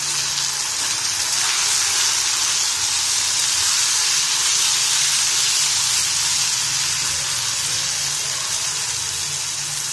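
Minced mutton (keema) sizzling in hot oil with chopped onions in a frying pan as it is stirred with a steel spoon: a steady, even frying hiss.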